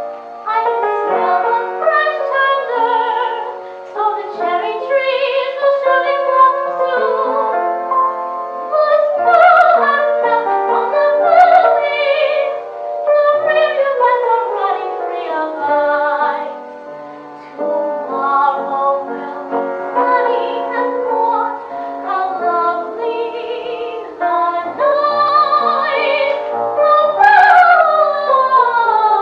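Light-opera singing from a small vocal ensemble, a soprano voice prominent, with vibrato on the held notes and several voices sounding at once. Two long falling vocal lines come about halfway through and near the end.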